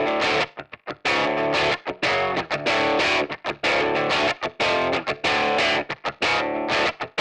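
Hard rock music: a heavily distorted electric guitar riff played in short stop-start bursts that cut off sharply between hits.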